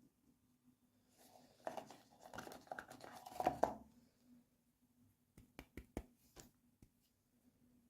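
Toy packaging being handled during an unboxing: a couple of seconds of crinkling and tearing, then a quick run of sharp clicks about five seconds in.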